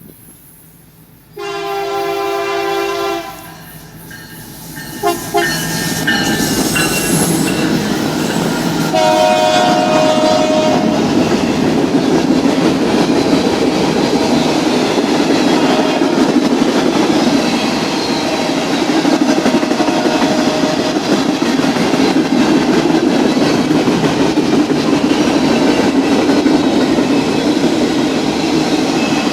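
Train horn: a long blast, a couple of short toots and another blast. Then the steady rumble and clatter of the train's cars passing close by.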